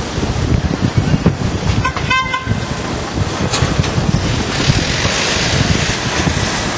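Wind buffeting the microphone, a gusty rumble throughout. About two seconds in comes a brief fluttering high toot, like a horn, lasting about half a second.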